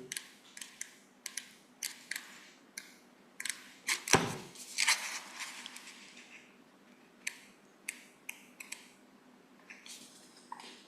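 Paper and book handling close to the microphone, as pages are leafed through to find a passage: a run of dry clicks and soft paper rustles, with one low bump about four seconds in.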